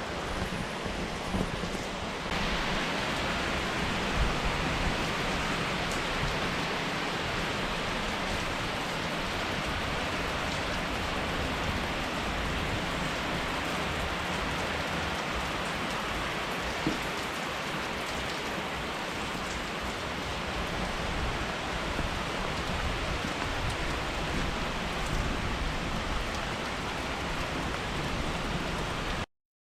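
Steady rain, a dense hiss that grows louder about two seconds in and cuts off suddenly near the end.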